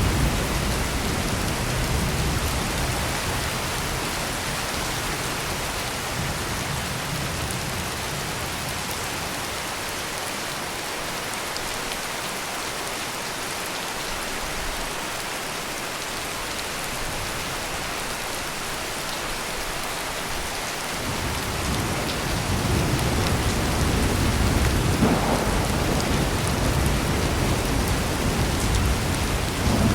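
Heavy rain pouring steadily. A low roll of thunder dies away in the first few seconds, and another long, deep rumble of thunder builds about two-thirds of the way through and carries on to the end.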